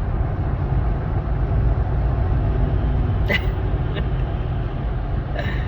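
Steady low rumble of a truck driving, engine and road noise heard from inside the cab, with a short sharp click about three seconds in and a fainter one a second later.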